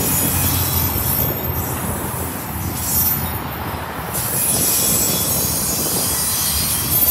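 Autorack freight cars rolling steadily past on the rails, with a continuous rumble of wheels on track. A thin, high wheel squeal comes and goes over it.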